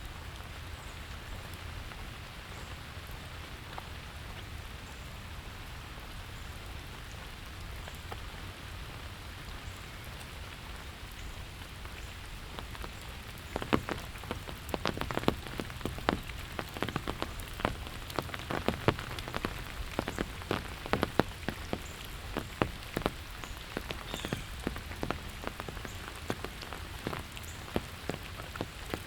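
Steady rain falling. About halfway through, loud, irregular drops begin tapping close by, many a second, over the rain's even hiss.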